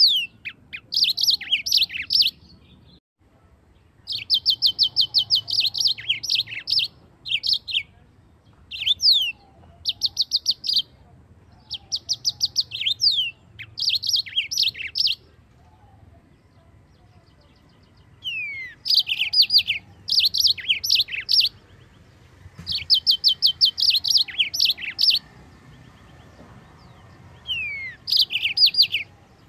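Yellow-fronted canary (Mozambique finch) singing. It gives phrases of rapid trilled notes mixed with downward-sliding whistles, each a second or two long, with short breaks between them and a longer pause about halfway through.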